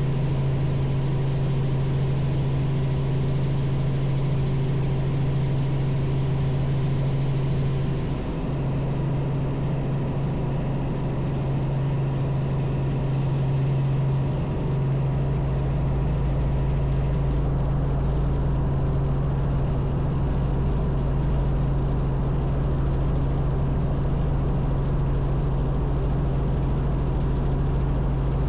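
Robinson R44 helicopter's piston engine and rotors running steadily in flight, a constant low drone. A deeper rumble joins about halfway through.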